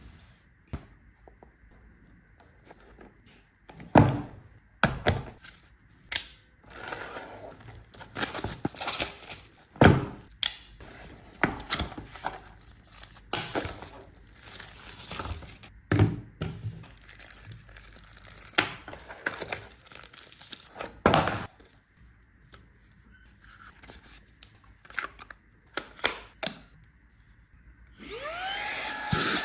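Packaging being handled during an unboxing: scattered knocks and thuds with rustling between them. Near the end, the motor of a Xiaomi Mi vacuum cleaner switches on and spins up with a rising whine.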